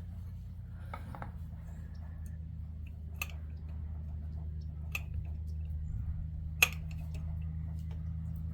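Scattered sharp metallic clicks and taps of small tools being handled, five in all, the loudest about two-thirds through, over a steady low hum.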